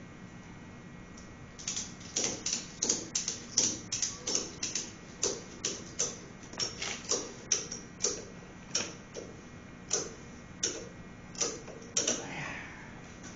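Nylon tie-down strap being tightened on a generator frame: a run of sharp, irregular clicks, roughly two a second, with a short squeak near the end.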